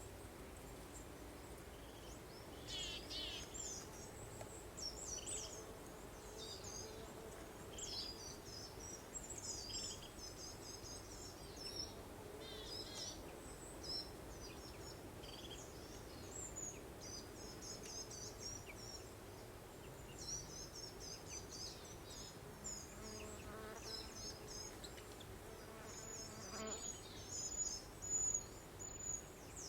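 Small songbirds chirping and twittering in short phrases over a steady soft breeze. A run of high, quickly repeated notes near the end is the loudest part.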